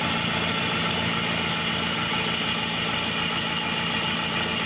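2001 PT Cruiser engine idling steadily, the air conditioning compressor not engaged.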